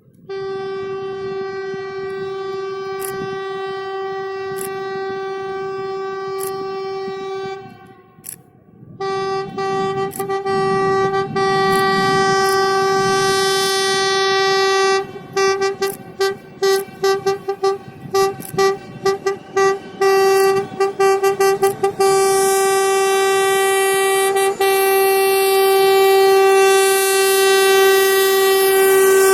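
TEP70 diesel locomotive's horn sounding one steady note: a long blast, a brief pause, a second long blast, then a rapid series of short toots, and another long held blast near the end.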